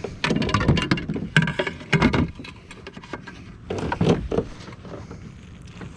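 Knocking and clattering against a kayak hull as fish and gear are handled aboard, in a busy burst over the first two seconds and a shorter one about four seconds in.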